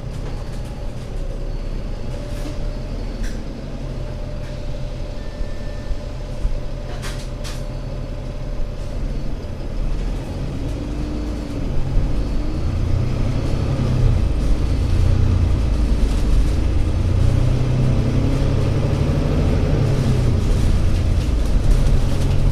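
ADL Enviro500 MMC Euro 6 double-decker bus's diesel engine running, getting louder about halfway through as it comes under more load, with a few light clicks in the first half.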